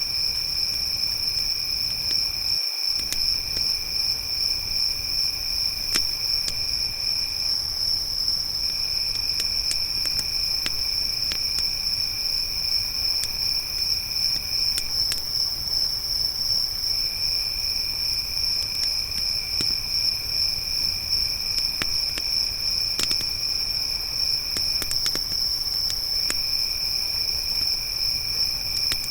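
Crickets trilling steadily in a high, pulsing tone, with a second, lower insect trill that breaks off a few times. Sparse sharp crackles of a wood campfire pop over the insects, with a low steady rumble underneath.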